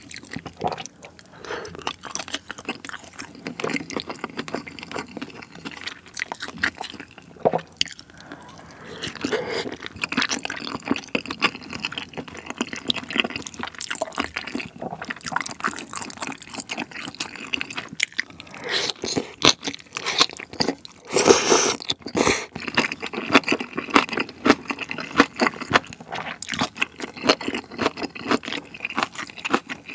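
Close-miked eating of spicy steamed monkfish with bean sprouts: wet chewing, crunching and squishing mouthfuls, irregular and continuous, with a louder stretch about two-thirds of the way through.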